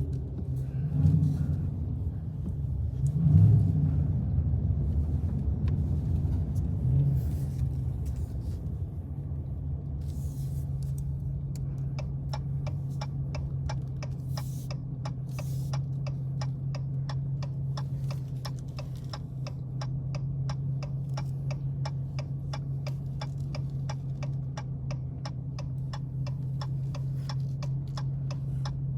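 Dodge Challenger V8 heard from inside the cabin, rumbling unevenly under light throttle with a brief swell a few seconds in, then settling to a steady low hum. About twelve seconds in, the turn-signal relay starts ticking, about twice a second.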